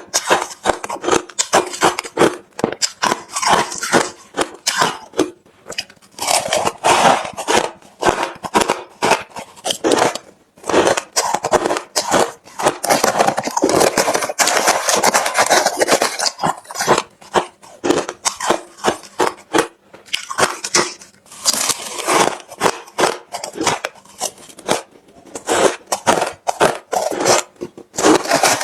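Refrozen crushed ice being chewed close to the microphone: rapid, loud, crisp crunches in runs with short pauses between bites.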